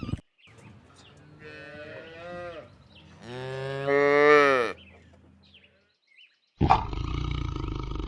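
A cow mooing twice: a shorter, quieter moo, then a long loud moo that drops in pitch as it ends. Near the end a loud, rough, low sound starts abruptly.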